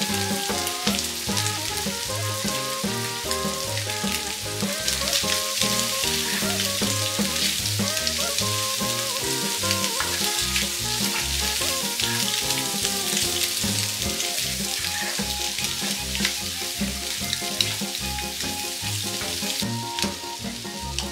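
Boiled-egg bhurji, chopped egg and masala, sizzling in a hot frying pan as it is stirred with a wooden spatula, with light scraping and crackling. Background music with a steady beat plays throughout.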